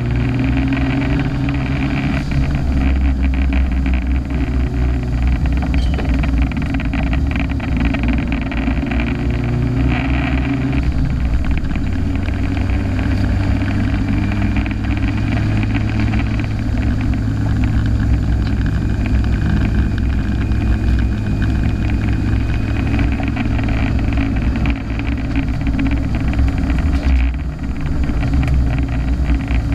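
Turbocharged car engine of about 300 hp running hard under load, heard onboard from inside the car, its note shifting in pitch with a brief drop in loudness near the end.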